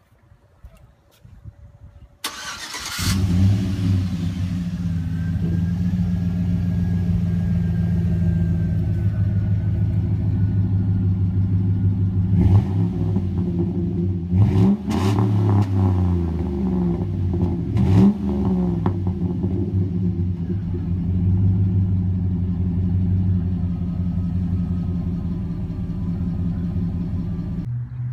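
Chevy Silverado V8 through a Flowmaster 40 series exhaust, starting up about two seconds in and then idling. It is revved three times near the middle, each rev rising and falling back to idle.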